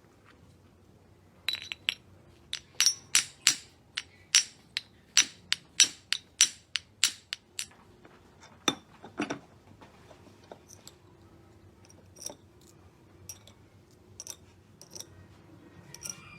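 Tool striking metal in a quick run of about eighteen sharp, ringing taps, around three a second, from about a second and a half in to near eight seconds. A few softer, scattered taps follow.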